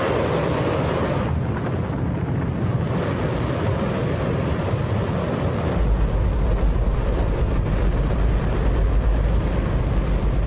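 Hydrogen-oxygen rocket engine firing on a static test stand: a continuous, very loud roar, with the deep rumble growing heavier about six seconds in.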